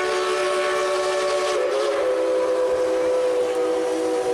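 Steam locomotive chime whistle sounding one long, steady blast of several tones together, with a slight waver in pitch about a second and a half in.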